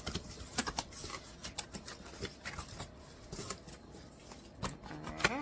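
A package being handled and opened by hand: irregular clicks, crinkles and scrapes of cardboard and packing.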